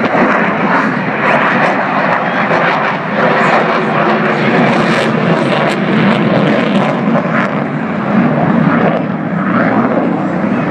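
F/A-18 Super Hornet jet engines passing overhead during a slow, nose-high pass: loud, steady jet noise that swells and eases slightly but never drops away.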